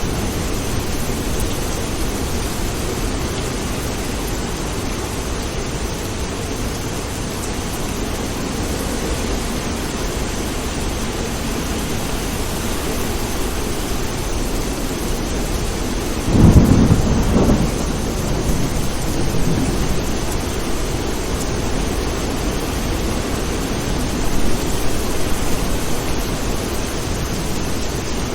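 Steady rain with a close thunderclap about halfway through: a sudden loud crack that rumbles away over a second or two, then a fainter rumble near the end.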